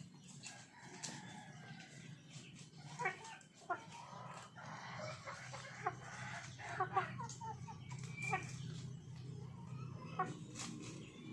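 Chickens clucking, with scattered short calls coming in clusters, over a steady low hum.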